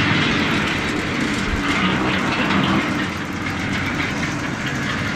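Car engine and exhaust running at low speed as the car manoeuvres in, a low uneven engine note under a steady hiss.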